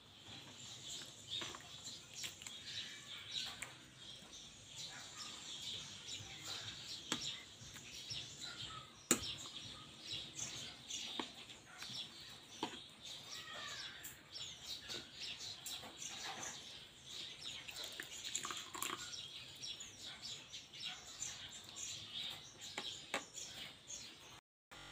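Faint birds chirping in short calls, with occasional sharp light clicks.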